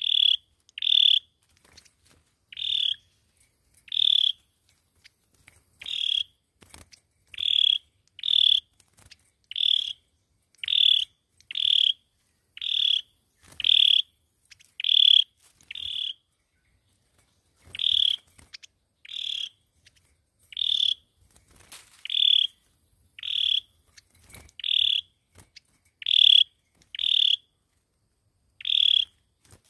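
A sâu dừa songbird repeating a short, high call note about once a second, with a brief pause about halfway through. This is the lure call used to draw the bird in for trapping.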